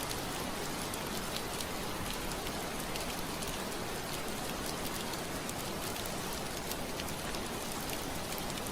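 Soft steady rain on a window pane: a continuous even hiss with scattered individual drop ticks, over a low wind.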